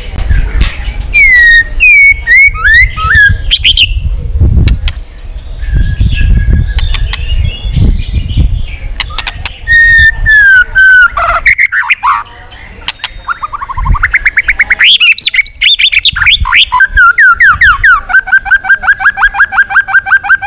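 White-rumped shama singing loud, varied whistled phrases of sliding notes, ending in a fast run of repeated down-slurred notes near the end. A low rumble sits under the song in the first half.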